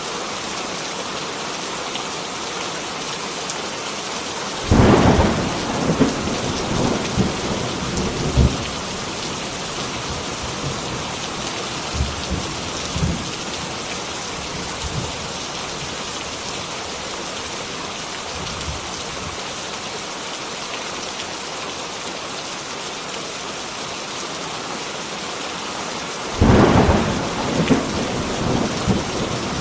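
Heavy rain falling in a steady hiss. Two claps of thunder break in, one about five seconds in and one near the end; each starts suddenly and rolls on in low rumbles for a few seconds.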